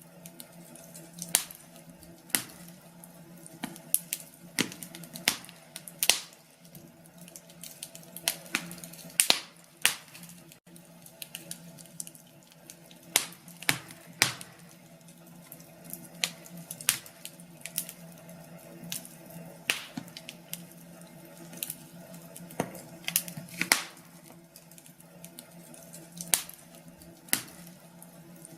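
Wood fire crackling in a fireplace: irregular sharp pops, one or two a second and some louder than others, over a faint steady hum.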